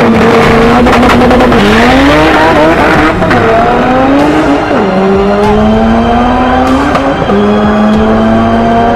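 Honda Civic drag car's four-cylinder engine held at steady launch revs, then pulling hard down the strip. Its note climbs through the gears, dropping at each upshift, about three, five and seven seconds in.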